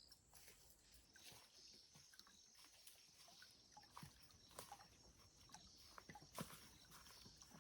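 Near silence: faint scattered clicks and short rustles over a steady faint high hiss.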